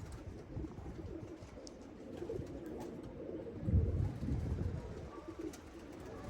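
Domestic pigeons cooing, with a brief low thump about four seconds in.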